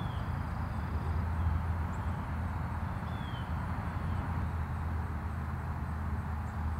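Steady low rumble of a train in the background, with a couple of faint short bird chirps.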